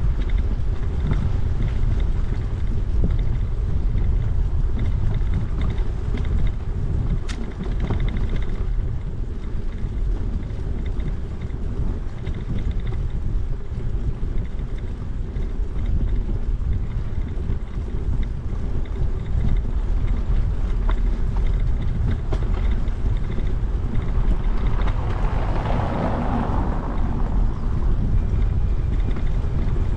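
Wind buffeting the microphone of a camera carried on a moving bicycle: a steady, loud low rumble, with a short swell of hiss about 25 seconds in.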